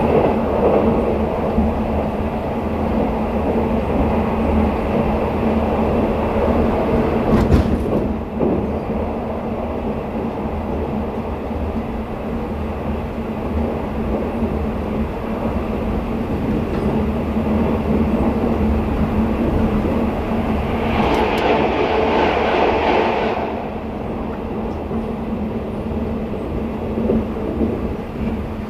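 Sleeper train running at speed, heard from inside a passenger car: a steady rumble of wheels on rail under a constant hum. There is a single sharp knock about seven seconds in, and a brief louder rush of noise a little past twenty seconds.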